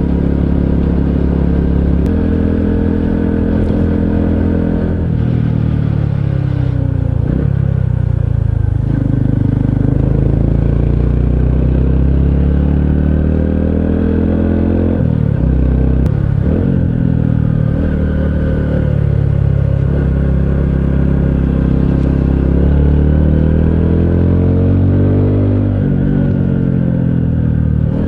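Honda CT125 Hunter Cub's single-cylinder four-stroke engine pulling under way, its pitch rising and falling with the throttle and dropping sharply several times as the rider changes gear.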